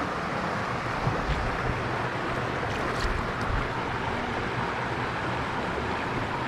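Steady rush of flowing stream water, with a couple of faint ticks about three seconds in.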